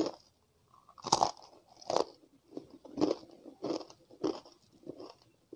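Close-up biting and chewing of chegodilu, a crisp fried rice-flour ring snack: a bite, then a steady run of crisp crunches, about three every two seconds, the loudest about a second in.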